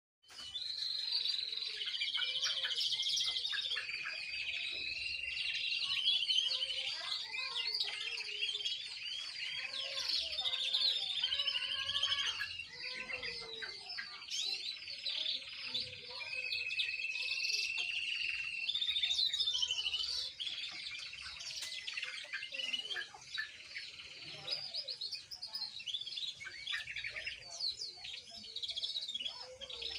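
Young canary, still learning its song, singing without a break: long rapid trills and held rolls mixed with quick warbling notes.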